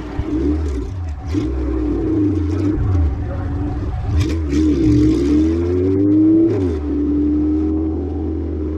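Honda B-series four-cylinder engine running on light throttle as the car rolls along slowly, heard close up from the hood. Its pitch wavers, climbs for a second or so about five seconds in, then drops back to a steady low drone.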